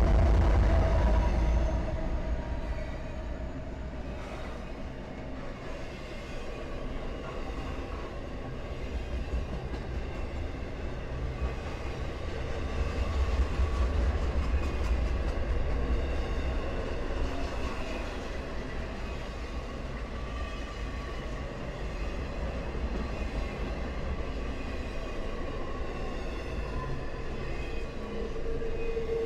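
Norfolk Southern freight train rolling past: loud low locomotive rumble at the very start that eases within about two seconds into the steady rumble of freight cars' wheels on the rail, with faint steady high-pitched squeal tones over it.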